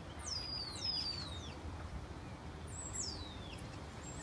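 Wild bird calling: thin, high whistles that slide steeply downward in pitch, about four of them, over a faint outdoor background hiss.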